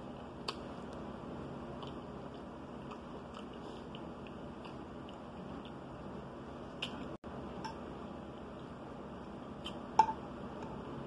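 Close-up chewing of meatloaf: small wet clicks and mouth sounds over a steady background hiss. About ten seconds in, a fork clinks against the plate, the loudest sound.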